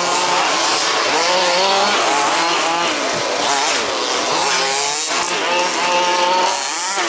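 Several 1/5-scale RC buggies' small two-stroke petrol engines racing together, their high-pitched buzz rising and falling in pitch as the throttles open and close.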